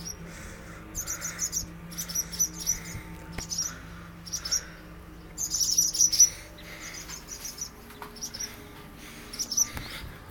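Birds calling in clusters of short, high, sharp chirps, a burst about every second, densest around the middle. Territorial birds scolding at the doorway, agitated after their nest was taken down.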